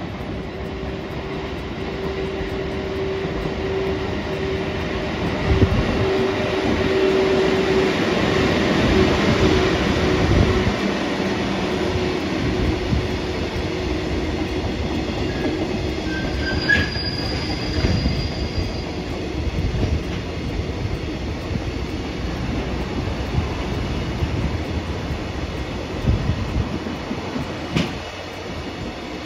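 A train running along the rails, its noise building over the first several seconds and then holding steady. A steady tone runs through the first third, and a few heavy knocks sound over the passage.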